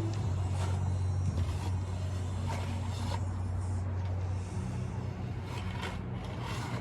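Concrete being mixed by hand, with a short scraping stroke every second or so. Under it runs a steady low motor hum that changes pitch about two-thirds of the way through.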